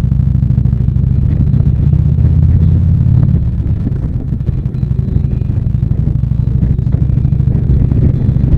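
Harley-Davidson V-twin motorcycle engine running steadily under way, a deep, even low drone that eases slightly about halfway through.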